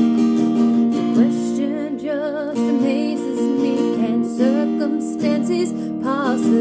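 Acoustic guitar strumming chords, with a wavering vocal melody sung over it in places.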